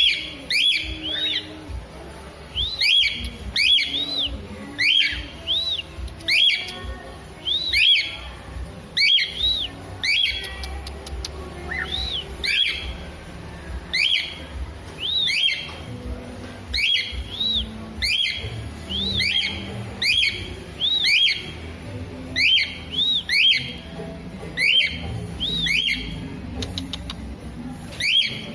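A bird calling over and over in short, clear, arched whistled notes, about one or two a second, over a low steady background.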